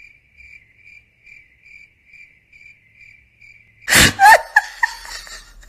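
Cricket chirping sound effect: an even, high chirp about twice a second. About four seconds in, a sudden loud burst cuts across it.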